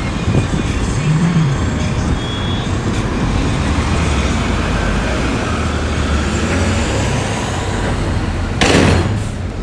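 Diesel engines of heavy earthmoving machines running with a steady low rumble. A brief loud rush of noise comes about a second before the end.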